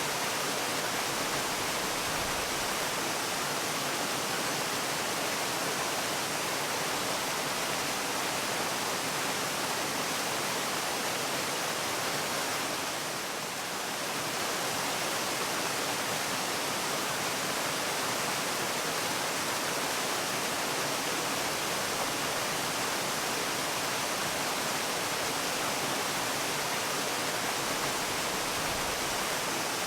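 Waterfall: a steady rush of falling water, dipping slightly for a moment about halfway through.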